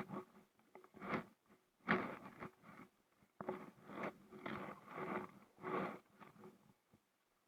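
Kayak paddle strokes on an inflatable kayak: a faint, irregular series of short splashes and scrapes, about one every half second to a second, with quiet gaps between.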